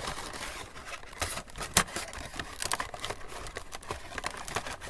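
Plastic packaging of a Funko Pop box being handled and pressed, crinkling and crackling with many irregular sharp clicks, the loudest just under two seconds in.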